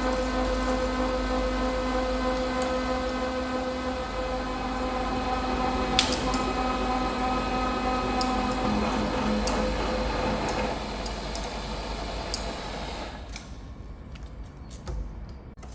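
Milling machine running with a boring tool cutting the bore of a high-tensile steel cylinder eye: a steady machine hum with a whine over it and a few sharp ticks, the strongest about six seconds in. About thirteen seconds in, the cut ends and the machine sound dies away.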